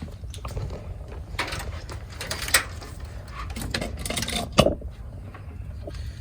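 Metal parts and hand tools clinking and knocking with some rustling while a throttle body is fitted onto the engine, with sharper knocks about two and a half and four and a half seconds in.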